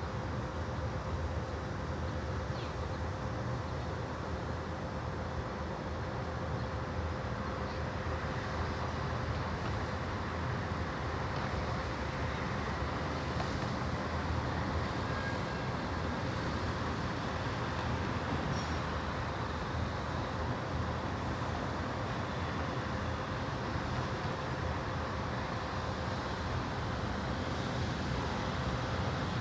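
Steady distant rumble of urban background noise, even and unchanging, with a faint steady hum.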